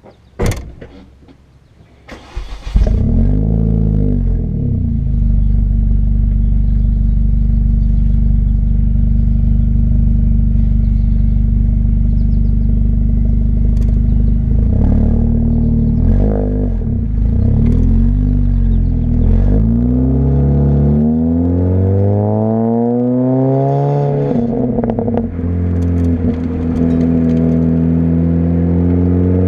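2006 Mini Cooper S (R53) with an Alta aftermarket exhaust: its supercharged 1.6-litre four-cylinder starts a little over two seconds in and settles to idle. Short blips of the throttle follow, then slower revs that climb and drop back, the engine held at raised revs near the end.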